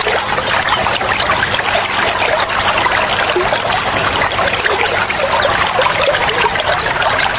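Water trickling and splashing steadily, like a small stream or waterfall, with a dense hiss that does not change.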